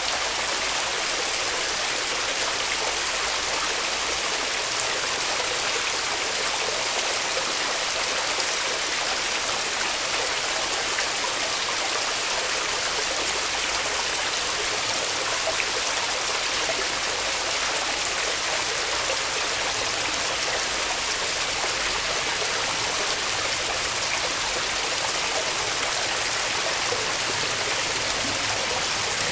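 Waterfall water rushing and splashing as a steady, unbroken hiss.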